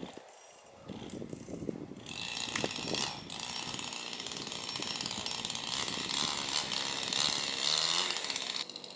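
Chainsaw cutting through bamboo: scattered knocks at first, then a steady, rattling run of the saw from about two seconds in that stops suddenly just before the end.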